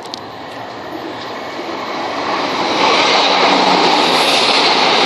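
Class 171 Turbostar diesel multiple unit passing through the station, growing louder over the first three seconds and then holding steady.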